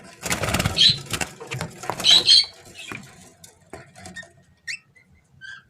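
Rustling and wing flutter of a hen canary being caught by hand in its cage, with short high squeaks, then a few separate short chirps near the end.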